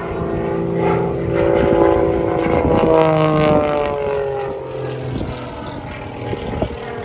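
Propeller aerobatic plane's piston engine passing overhead, growing louder and then dropping in pitch as it goes by.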